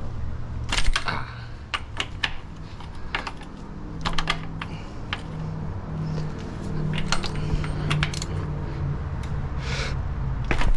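Irregular metallic clicks and clinks of a wrench and 27 mm socket being fitted and worked on a tight fastener of the timing chain tensioner, over a steady low hum.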